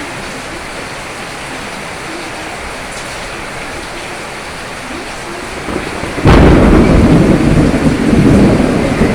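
Steady rain, then about six seconds in a sudden loud clap of thunder that goes on rumbling over the rain.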